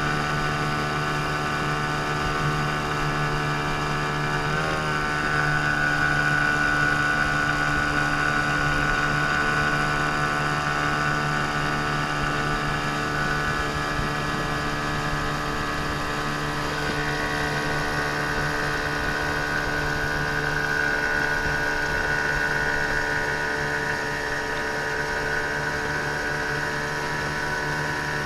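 15-horsepower outboard motor running steadily, its pitch shifting slightly about five seconds in and again a little after halfway.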